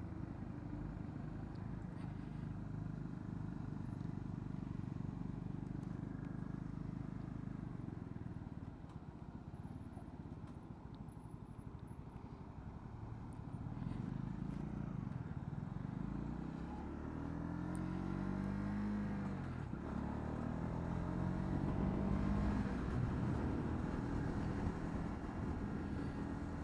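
Honda CB125R's single-cylinder four-stroke engine on the move: steady at first and a little quieter around ten seconds in, then its pitch climbs as the bike accelerates, drops at a gear change a little before twenty seconds in, and climbs again.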